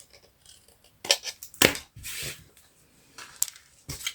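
Craft materials handled on a tabletop: scattered taps, clicks and rustles of paper, with two sharper knocks about a second and a second and a half in.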